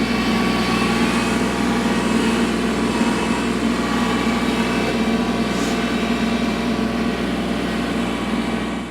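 Kubota L3301 tractor's three-cylinder diesel engine running steadily at an even speed; it cuts off abruptly at the end.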